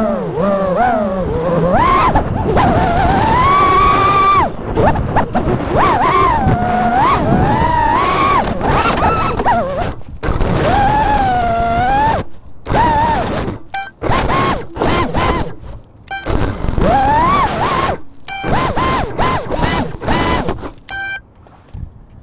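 A 5-inch FPV quadcopter's brushless motors (T-Motor Velox 2207.5 1750kv) whining, the pitch gliding up and down with the throttle. In the second half the throttle is chopped and punched again and again, so the whine breaks off and returns in short bursts. It stops near the end as the battery runs flat.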